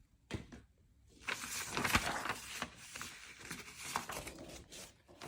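Crinkling and rustling of stamp sheets and their packaging being handled, with a sharp click about a third of a second in and another at the end.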